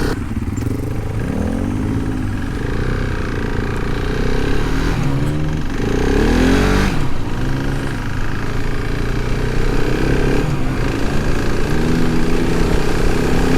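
Adventure motorcycle engine under way on sand, its revs rising and falling several times as the throttle is worked, with wind and road noise.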